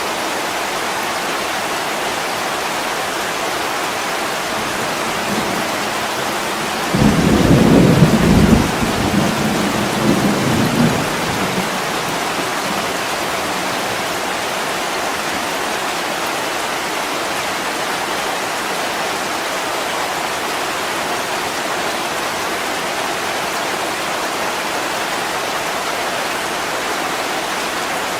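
Heavy rain falling steadily on a window. About seven seconds in, a sudden clap of thunder rumbles for a few seconds, then fades back under the rain.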